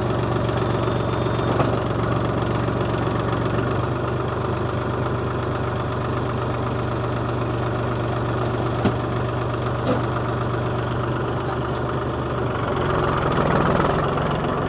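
Mahindra tractor's diesel engine running steadily, getting louder and changing pitch near the end, with a few brief knocks in the middle.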